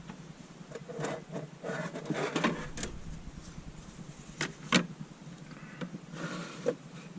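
Gear being handled and set down: rustling and scraping, with several sharp clicks and knocks, the loudest a pair a little past the middle.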